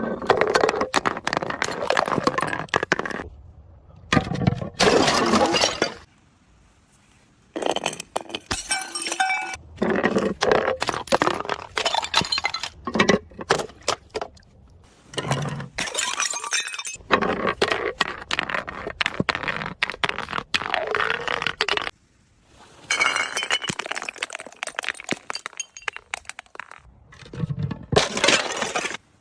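Glass bottles breaking and shattering, with clinking and crunching of broken glass, in a series of dense runs of sharp cracks separated by short pauses.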